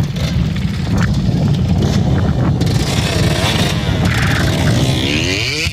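Motorcycle engine revving, its pitch rising and falling several times in the second half, over a steady low rumble.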